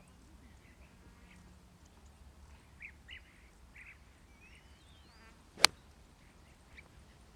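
Golf club striking a ball on a tee shot: a single sharp crack about five and a half seconds in, with birds chirping in short calls throughout.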